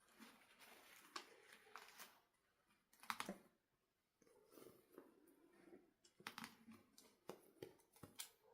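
Faint rustling and sharp clicks from hands handling plastic toy packaging. There is a louder cluster of clicks about three seconds in and more near the end.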